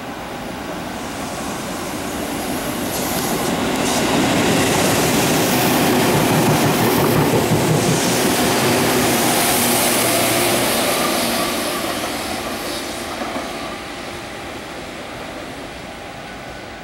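Tobu 6050-series electric train passing at speed, its wheels clattering over the rail joints. The sound grows louder as the train approaches, peaks as the cars go by, then fades as it pulls away.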